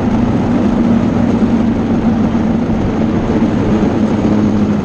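A motor engine running with a steady drone, its pitch holding level throughout.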